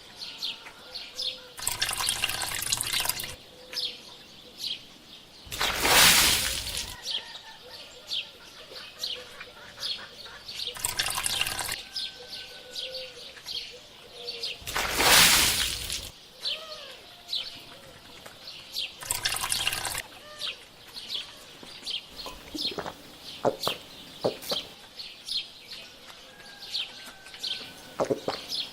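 Small birds chirping throughout, with repeated surges of running, splashing water, the loudest about six and fifteen seconds in.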